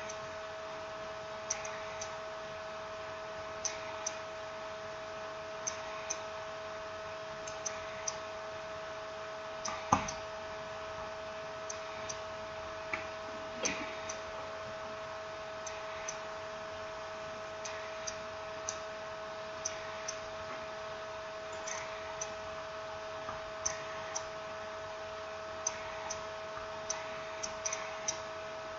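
Scattered small clicks and taps of tools and smartphone parts being handled during reassembly, irregularly spaced, with one louder knock about ten seconds in, over a steady electrical hum.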